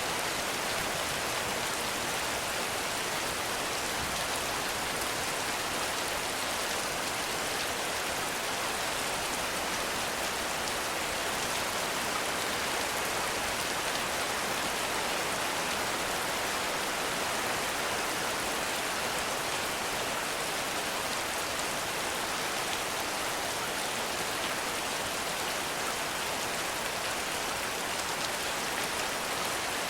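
Heavy rain falling steadily, an even hiss of rain on leaves and ground.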